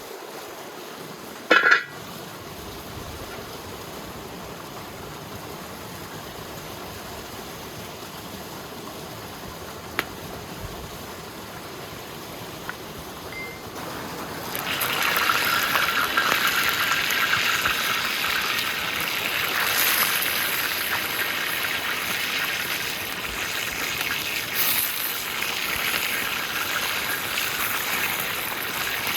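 Running water: a river's steady rush, joined about halfway through by louder, splashing water that carries on to the end. A single brief sharp knock sounds near the start.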